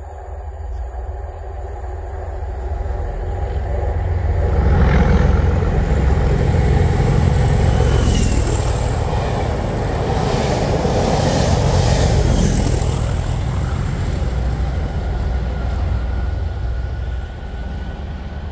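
A test train hauled by two Class 37 diesel locomotives, with English Electric V12 engines, passes close by. The rumble builds sharply about four seconds in as the train reaches the platform. Heavy running and wheel clatter follow while the coaches go by, then the sound eases near the end.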